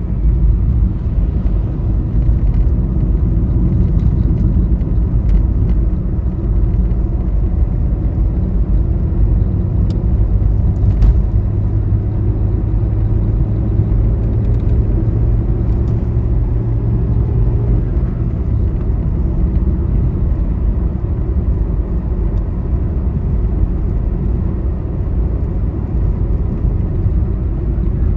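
Steady low rumble of a vehicle travelling on a highway, with road and engine noise. A steadier low hum joins in for several seconds in the middle, and there are a few faint ticks.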